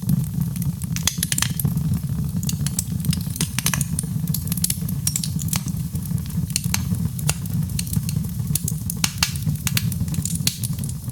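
Wood fire burning: frequent, irregular sharp crackles and pops over a steady low rumble from the flames.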